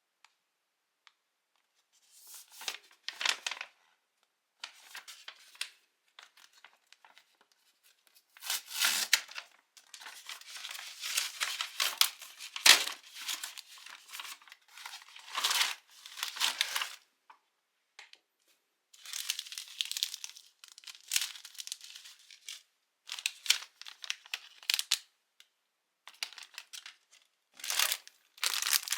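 Plastic instant-food packaging being torn open and crinkled, in irregular bursts of rustling with short silent pauses between them, and one sharper tear about halfway through.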